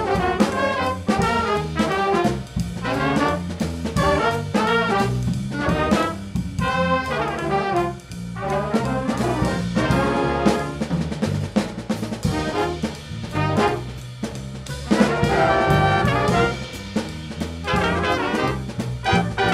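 Jazz band playing an upbeat swing-style tune: trumpets and trombones carry the melody over a bass line and drum kit.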